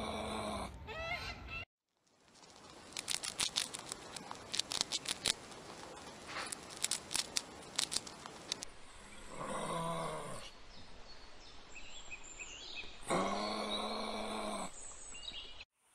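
Animal calls from separate clips: drawn-out pitched calls near the start, about ten seconds in and about thirteen seconds in. Between them comes a long run of sharp clicks and taps, with short cuts to silence between clips.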